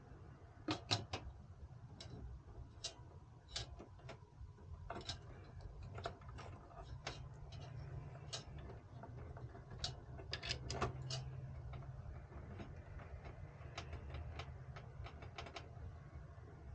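Irregular light clicks and taps from hands handling small hardware parts, some in quick clusters, over a steady low hum.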